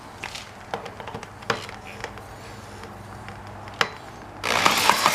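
A few scattered clicks and knocks, then about four seconds in a small model flathead engine starts suddenly and runs with a loud, rapid firing rattle.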